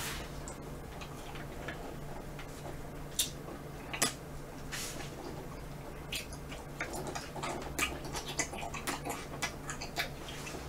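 Close-up eating sounds of a person chewing chewy mochi ice cream with vanilla ice cream: scattered soft mouth clicks and smacks, more frequent toward the end, over a faint steady hum.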